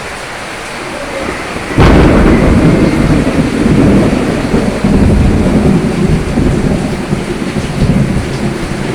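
Steady rain, then a sudden thunderclap about two seconds in, followed by a loud, low rumble of thunder that continues over the rain.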